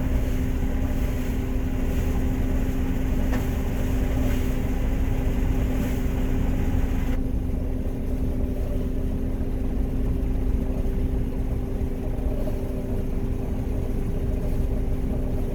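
John Deere 9500 combine running steadily while harvesting peas: a constant drone of engine and threshing machinery with a steady hum. About seven seconds in, the higher hiss drops away while the drone carries on.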